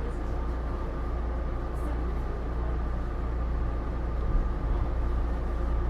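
Taipei Metro Series C301 train heard from inside the car, running at a steady speed: a constant low rumble of wheels on rail with faint steady tones above it.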